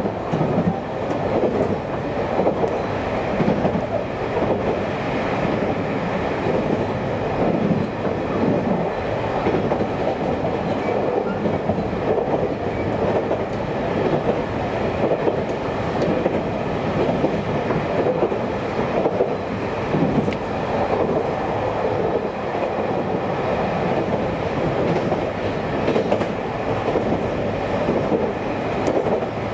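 Local electric train running at speed, heard from inside the carriage: a steady rumble of wheels on rail with frequent clatter from rail joints.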